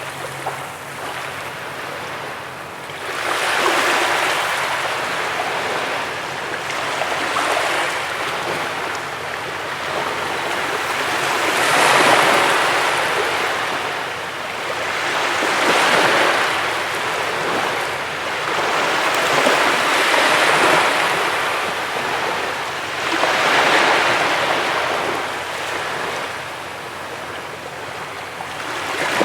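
Ocean surf breaking and washing on a beach, the rush of water swelling and fading about every four seconds.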